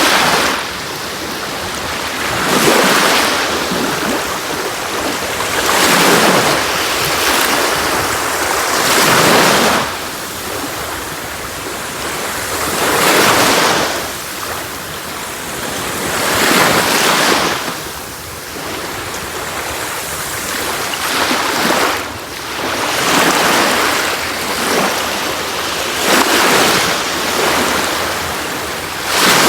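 Sea waves breaking and washing on a beach, swelling and easing about every three to four seconds.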